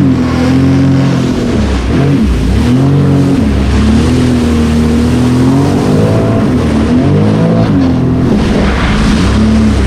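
Sea-Doo personal watercraft engine running on the water, the throttle eased off and opened again several times, so the engine pitch dips and rises.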